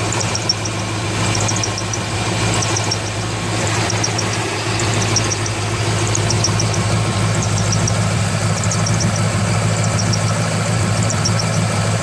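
2003 Corvette Z06's LS6 V8 idling steadily, with a high-pitched squeak from the engine's belt drive chirping in quick clusters of three or four about every second or so. The main belt is brand new and its tensioner pulley checks fine, so the owner suspects the AC belt, its idlers or the harmonic balancer.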